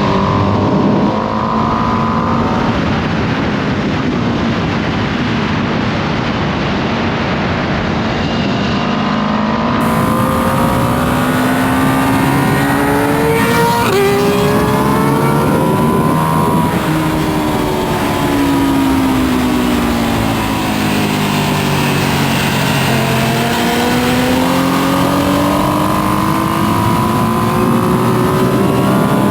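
2025 Ducati Panigale V2S's V-twin engine on its stock exhaust, heard onboard at track speed. The engine pitch climbs and falls several times as it accelerates and slows through corners, over a steady rush of wind.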